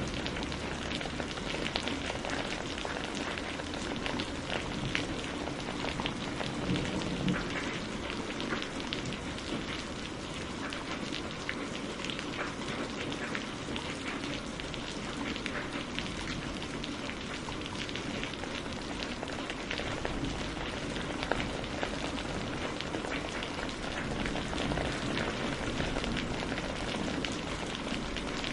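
Steady rain falling, with many small sharp ticks and pops throughout, mixed with firewood crackling as it burns.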